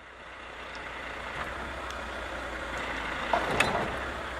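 Heavy truck engine running steadily, with a brief sharp clank and a short squeak about three and a half seconds in.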